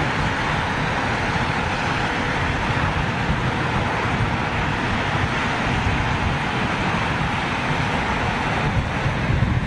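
Jet airliner's engines at takeoff power: a steady, even roar as the aircraft begins its takeoff roll.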